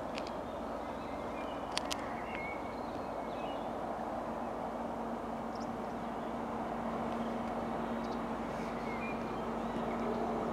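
An approaching train's steady hum, growing gradually louder over a constant background rumble, with faint bird chirps. Two sharp clicks come just under two seconds in.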